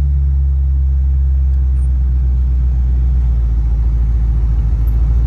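1992 Ford Mustang GT's 5.0 V8, fitted with a BBK off-road H-pipe and a Magnaflow cat-back exhaust, idling with a steady low rumble, heard from inside the car. The exhaust pulses grow more distinct about three seconds in.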